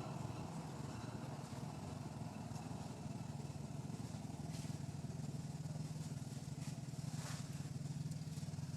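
A motor engine running steadily with a low, even hum, and a few faint clicks about seven seconds in.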